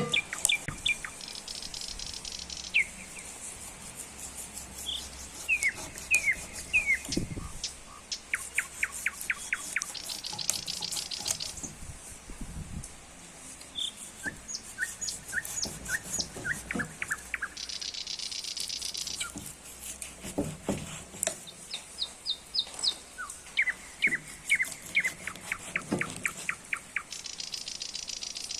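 Songbirds singing: repeated phrases of quick, high chirps, broken roughly every eight seconds by a buzzy high trill lasting about a second and a half.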